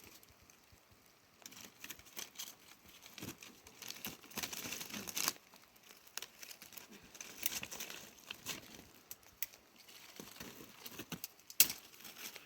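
Irregular rustling and crinkling handling noise with scattered sharp clicks and light knocks, in denser patches, with one sharper click near the end.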